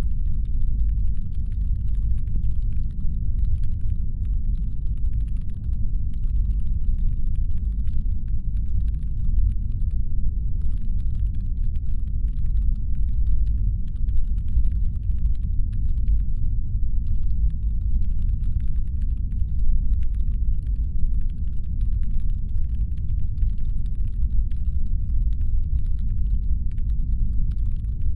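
Deep, steady brown-noise rumble standing in for a spaceship's engine hum, with a faint fast crackle of tiny clicks over it that drops out now and then.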